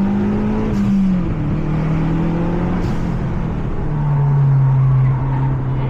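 Mazda 3 MPS's turbocharged 2.3-litre four-cylinder engine under hard acceleration on track, heard from inside the cabin. Its pitch climbs, drops about a second in as the revs fall, then runs on under load, with two brief sharp clicks.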